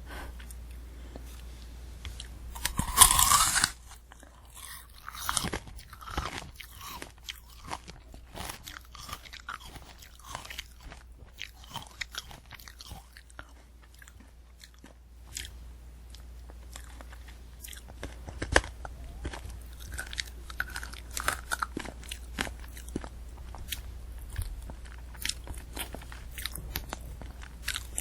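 Close-miked bite into a candy apple, a loud crunch about three seconds in, followed by chewing with many crisp crackles of the hard sugar shell and apple flesh.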